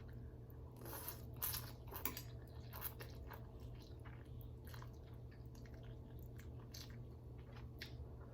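Close-miked eating of ramen noodle soup: wet chewing and slurping with short mouth smacks, the busiest in the first few seconds.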